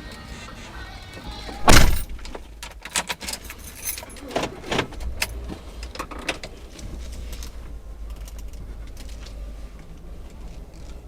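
Steady low rumble of a car's engine and road noise heard inside the cabin. About two seconds in there is one loud thump, followed by several seconds of clattering and rattling.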